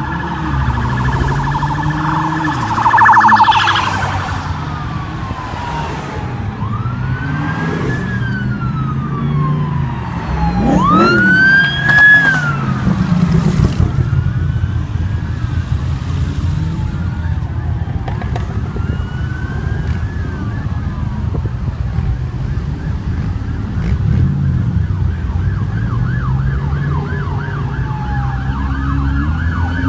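An emergency vehicle siren sounding over street traffic, its pitch sliding slowly up and down in a wail, then switching to a fast warbling yelp near the end. Vehicle engines run underneath.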